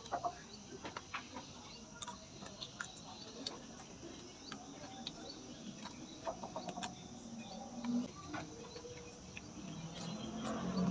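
A person eating close to the microphone: chewing, with many short sharp crunches and mouth clicks scattered throughout.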